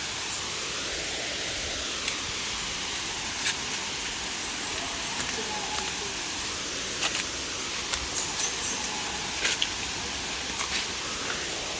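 Steady rush of flowing water from a river or waterfall, with a scattering of light clicks and taps over it.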